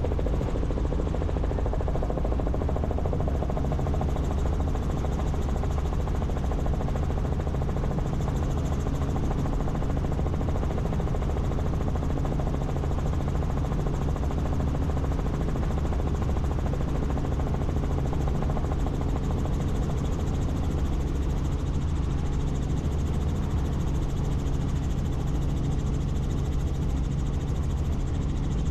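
Helicopter in flight, heard from on board: a loud, steady drone of engine and rotor that holds even throughout.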